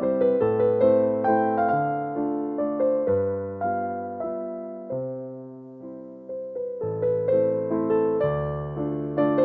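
Background solo piano music in waltz time: a steady run of struck notes that fade as they ring, easing off to a quieter phrase about halfway through before picking up again.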